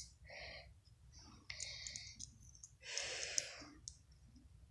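Faint clicking with three short, soft scratchy rustles, the loudest about three seconds in.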